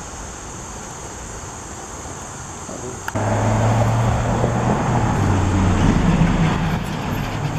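A big truck driving past, its engine drone coming in suddenly about three seconds in and staying loud, over a steady high buzz of insects.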